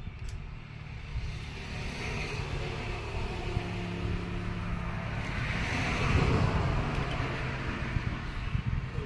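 A motor vehicle's engine running, growing louder to a peak about six seconds in and then easing off.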